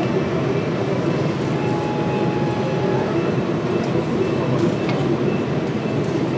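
Train running along the track: a steady rolling rumble with a few faint clicks.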